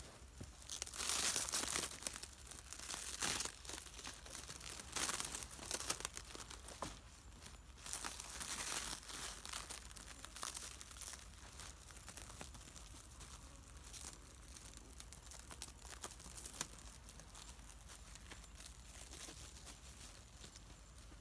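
Plastic crinkling and rustling as it is handled, in several loud bursts over the first ten seconds or so, then softer, steadier crackling.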